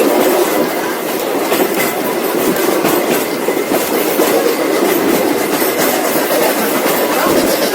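Heritage railway carriages rolling steadily along the track, the wheels clicking over rail joints beneath a continuous rumble.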